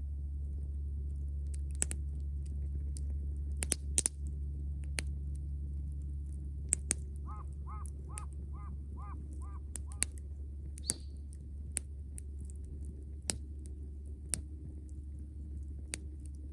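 Wood campfire crackling, with a dozen or so sharp pops scattered irregularly over a low steady rumble. Partway through, a bird calls a quick run of about seven short notes.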